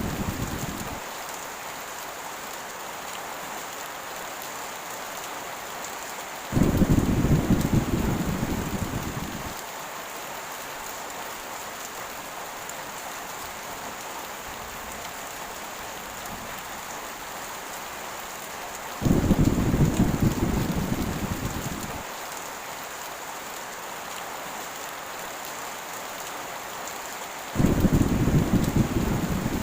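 Steady heavy rain hissing, with rolls of thunder: three deep rumbles break in suddenly, about six and a half, nineteen and twenty-seven and a half seconds in, each dying away over about three seconds.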